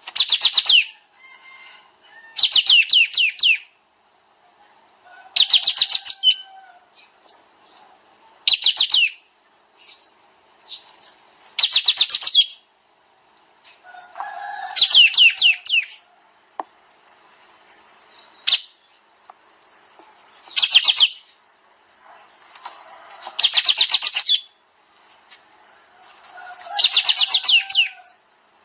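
A kapas tembak songbird singing in loud, tight bursts of rapid, falling notes, about nine bursts a few seconds apart, with softer short chirps between them.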